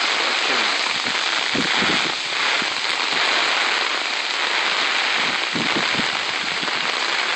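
Heavy hurricane rain pouring down in a steady hiss, with a few brief low bumps.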